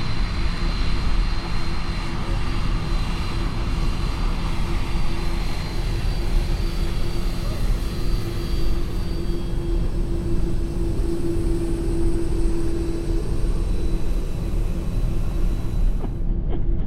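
The jet engines of a Boeing 747-400 running steadily at low power while it taxis: a continuous rumble with a steady hum and a thin high whine. The higher sounds drop out abruptly just before the end.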